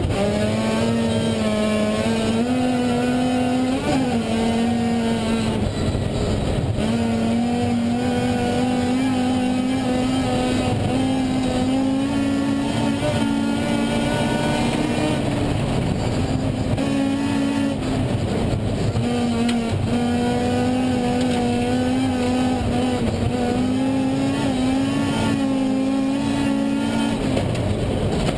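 Rally car engine heard from inside the cabin, driven hard at high revs with the pitch climbing and stepping as it goes through the gears. The throttle lifts briefly about a fifth of the way in and again about two-thirds through, with tyre and road noise underneath.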